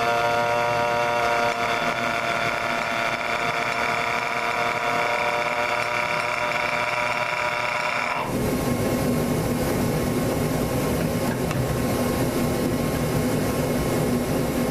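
Starter spinning the glow-plug engine of a micro mini pulling tractor, a steady high whine lasting about eight seconds, during an attempt to start it. The whine cuts off abruptly and gives way to a rougher, noisier drone.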